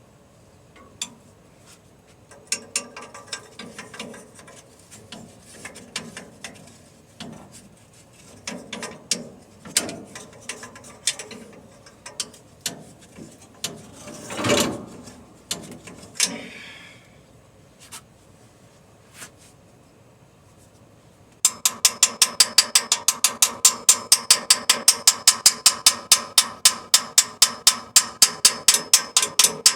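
Scattered knocks and clicks of parts being handled, with one louder rush about halfway. About three quarters of the way in, a machine starts and runs with a loud, rapid, very regular clicking, about nine clicks a second.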